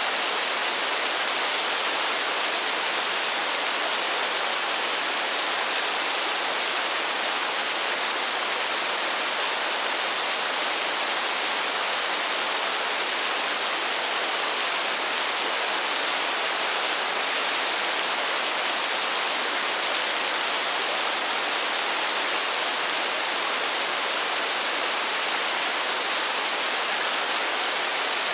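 Steady rainfall, a constant even hiss with no single drops standing out and little low rumble.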